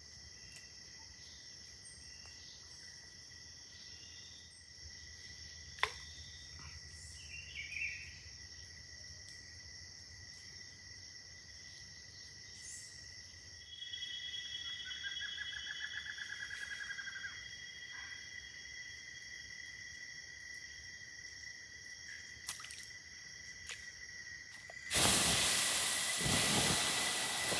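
Forest insects droning at two steady high pitches, with a rapid pulsed trill for a few seconds about halfway through. Near the end a loud rushing hiss cuts in suddenly.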